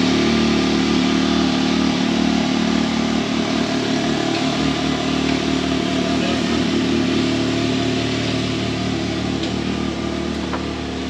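Original six-cylinder engine of a 1933 Chevrolet idling steadily, just started after it had been thought not to run.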